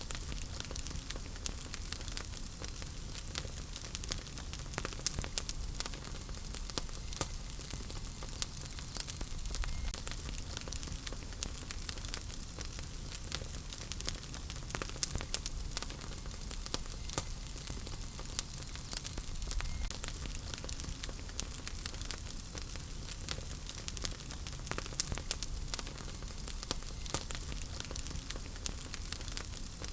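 Wood fire crackling in a fireplace: frequent sharp pops and snaps at irregular intervals over a low, steady rumble of the flames.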